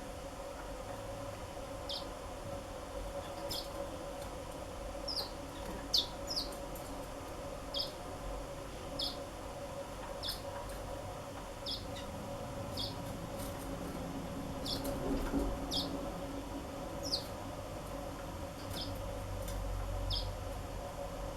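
Black-throated canaries calling: short high chirps repeated roughly once a second, over a steady low hum.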